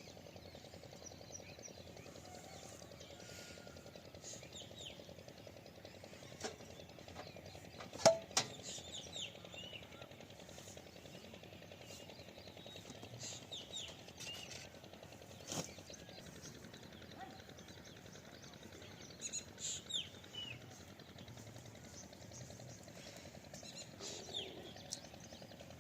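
Small birds chirping in short, falling calls scattered throughout, over faint outdoor background noise. A few sharp knocks stand out, the loudest about eight seconds in.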